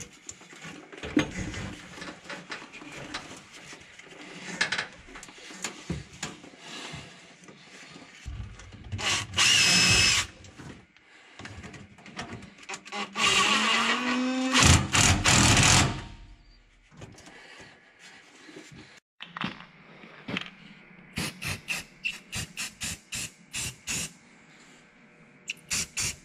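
Makita cordless drill driving the hose clamps on a new rubber diesel filler hose. It runs in two bursts, the second with a rising whine, between stretches of handling clatter. A run of quick sharp clicks comes near the end.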